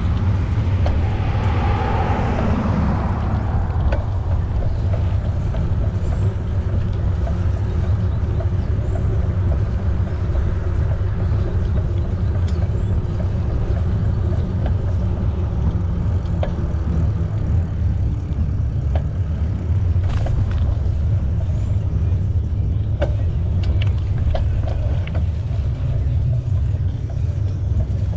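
Bicycle riding along a trail: a steady low rumble of wind buffeting the camera microphone and tyres rolling, with a louder rushing swell in the first few seconds and a few light clicks later on.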